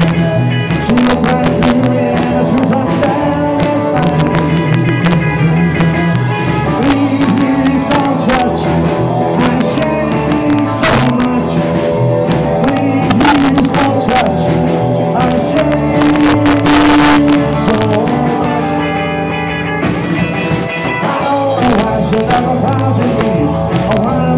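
Live rock and roll band playing: electric guitar, bass and drums with a steady beat, and singing at times.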